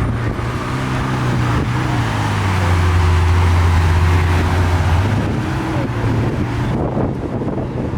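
A car engine running at low, steady revs as the car drives slowly past, its deep hum swelling from about three seconds in and easing off after five.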